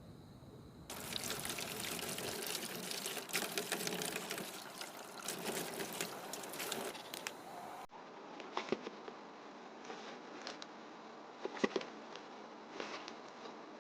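Liquid pouring and splashing with a dense crackle starting about a second in. It stops abruptly at a cut about eight seconds in, after which there are only scattered light clicks and knocks.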